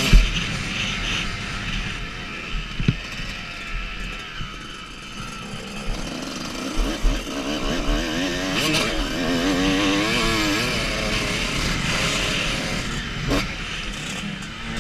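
Motocross dirt bike engine revving up and down while riding, its pitch rising and falling, with a few sharp knocks and wind rushing over the microphone.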